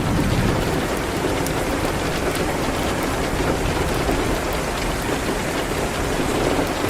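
Steady, dense rain hiss with scattered faint ticks.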